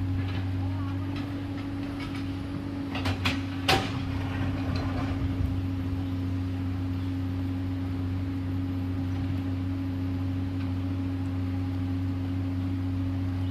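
Komatsu PC210LC excavator's diesel engine running with a steady drone, with a few sharp knocks clustered about three to four seconds in.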